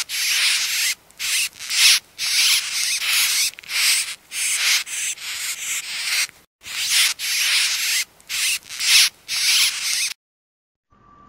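Mouse squeaking, played as a recording: a rapid run of short, high-pitched, hissy bursts, about two a second, with a brief break about six and a half seconds in.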